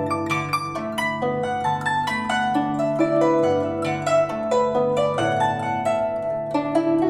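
Guzheng (Chinese zither) playing a melody: a quick run of plucked notes ringing over long held low notes.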